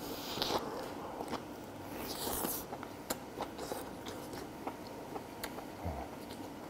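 Soft, close-up mouth sounds of biting into and chewing a whole grilled king oyster mushroom, with faint wet clicks and a couple of breathy puffs of air out over the hot food.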